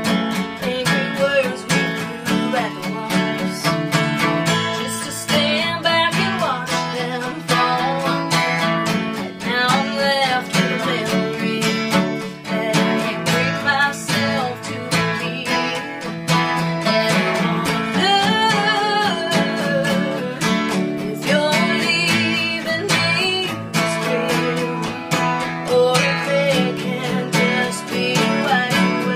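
Acoustic guitars playing a slow country song, chords strummed under picked lead lines.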